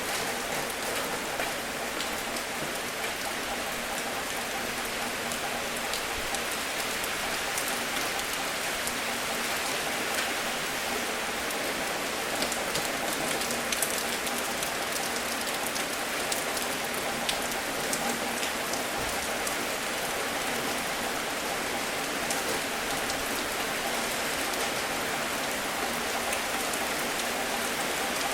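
Steady rain falling, an even hiss with scattered individual drops ticking on a surface, a few louder drop ticks about halfway through.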